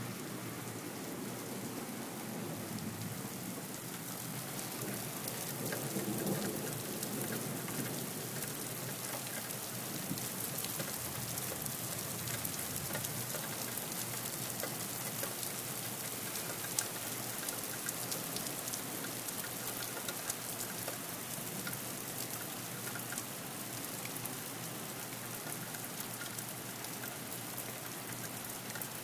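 Heavy rain falling in a storm, a steady hiss of rain with no let-up.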